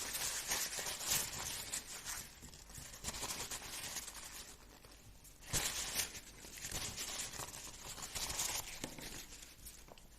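Close crinkling and rustling handling noise in two stretches: one lasting about the first three seconds, another starting sharply about five and a half seconds in and easing off near nine seconds.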